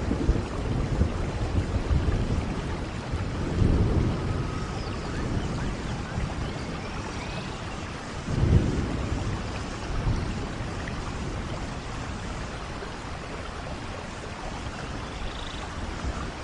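Steady rainfall with a continuous hiss, and low rumbles of distant thunder swelling twice, about four seconds in and again about halfway through.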